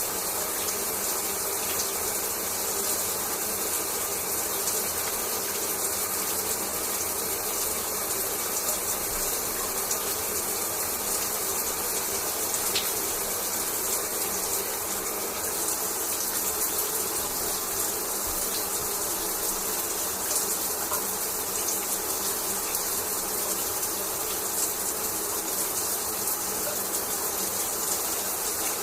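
Shower water running steadily: an even spray of water falling, with a few faint clicks.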